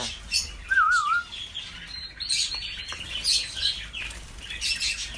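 Caged European serins chirping, many short high calls in quick succession, with a short wavering whistle about a second in and two faint clicks near the middle.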